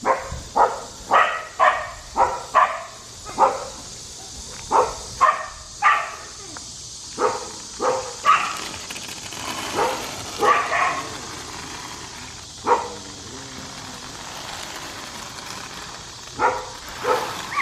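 A dog barking repeatedly in short, sharp barks, irregularly spaced, pausing for a few seconds near the end before barking again. A steady high insect drone runs underneath.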